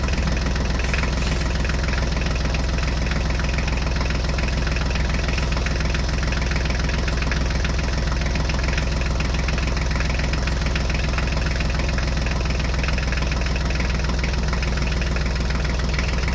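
Steady tractor engine sound, a diesel-like chug that holds an even pitch and pace as the toy tractor is driven along.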